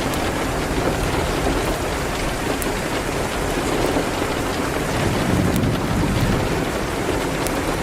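Steady heavy rain against a window, with a low rumble swelling about five seconds in, and a few faint crackles from a fireplace.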